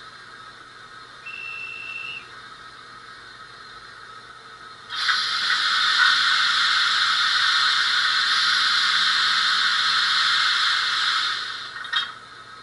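Stanier 8F steam locomotive sound effects played by a model railway DCC sound decoder. A short, steady, high whistle note comes about a second in. From about five seconds in, a loud, steady steam hiss blows for around six seconds and then dies away, followed by a single click.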